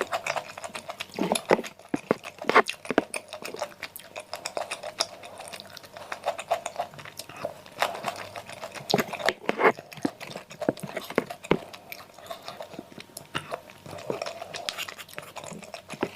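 Close-miked chewing and biting of baso aci: continuous wet mouth sounds with many irregular sharp clicks and short crunches.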